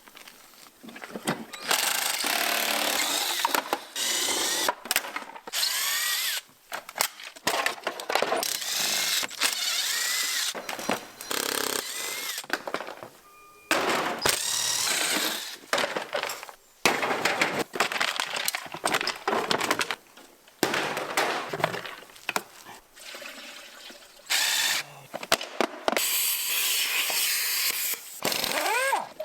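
Handheld power tool run in repeated bursts of one to three seconds, its motor whine rising as it spins up, with short knocks in the gaps between bursts: bolts being undone to strip down a scrap motorcycle.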